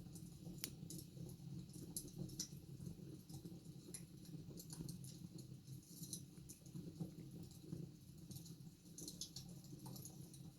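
Wood fire in a fireplace crackling faintly, with small irregular pops and snaps over a low steady background noise.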